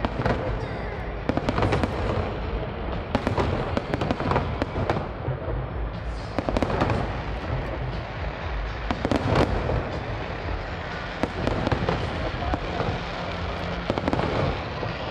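Fireworks display: a continuous low rumble of shell bursts with crackling, broken by loud bangs every second or so.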